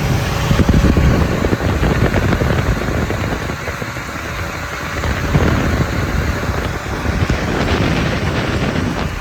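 Loud wind buffeting the microphone in stormy weather, a dense rushing rumble that swells and eases.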